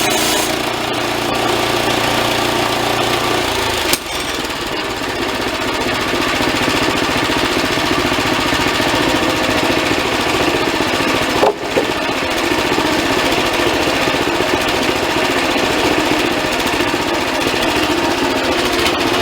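Band sawmill running steadily with a loud mechanical engine noise. High-pitched cutting noise dies away about half a second in, and the drive's sound changes around four seconds in. Two brief knocks come about 4 and 11.5 seconds in.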